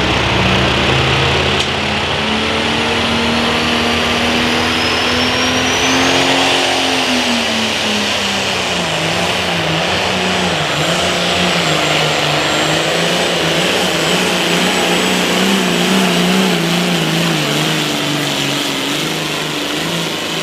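Limited Pro Stock pulling tractor's diesel engine running hard at full power. Its pitch climbs over the first six seconds, drops about seven seconds in, then wavers up and down as the engine keeps pulling. A thin high whine rises alongside it early on.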